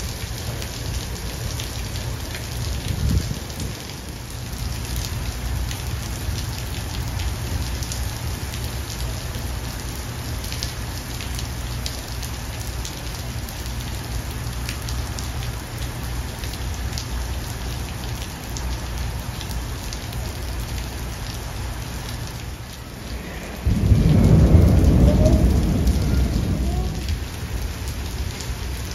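Heavy rain falling steadily on pavement. Near the end, a sudden loud clap of thunder rumbles and dies away over a few seconds.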